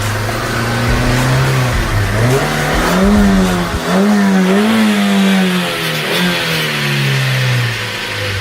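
Car engine revving, its pitch rising and falling repeatedly and wavering as the revs change.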